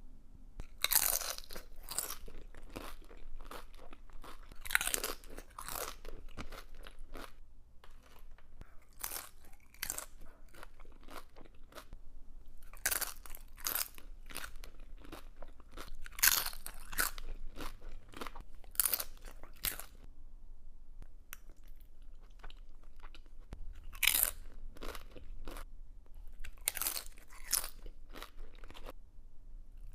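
Close-up eating of tortilla chips: crisp crunching in bouts of rapid bites and chews, with quieter chewing between the bouts.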